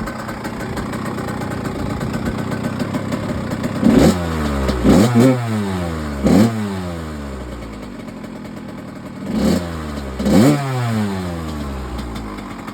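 1998 Kawasaki KX80's small two-stroke single-cylinder engine, idling steadily after a first-kick start, then blipped about six times, each rev rising sharply in pitch and dropping back to idle.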